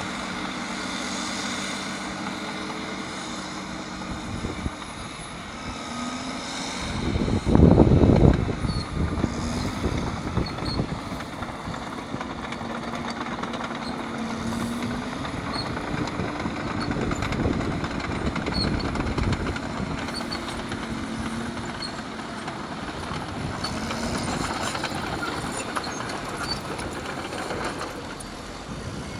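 Caterpillar D6R bulldozer's diesel engine working under load, its pitch rising and falling, with a loud low rumble about seven to eight seconds in.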